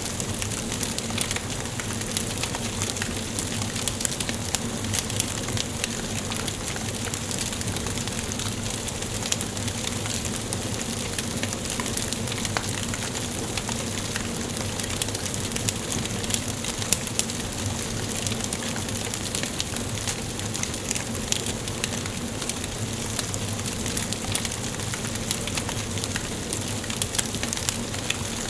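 Wood fire burning in a fireplace: a steady hiss with frequent small sharp crackles and pops, a few of them louder.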